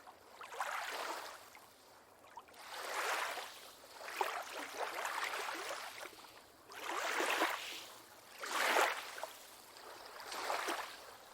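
Small waves lapping, about six short swells of water noise rising and falling, each lasting roughly a second.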